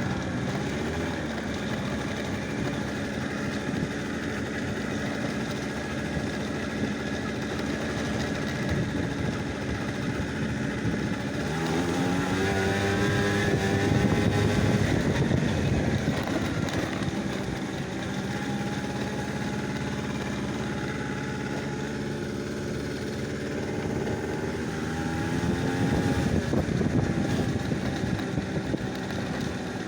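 A vehicle engine running, its pitch rising as it speeds up about twelve seconds in and again near twenty-five seconds, then dropping back.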